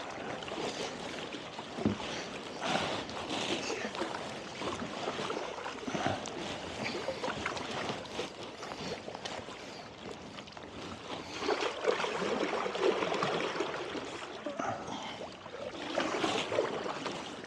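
Paddles dipping and pulling through lake water beside a two-person kayak, with irregular splashing and dripping strokes over a steady watery hiss.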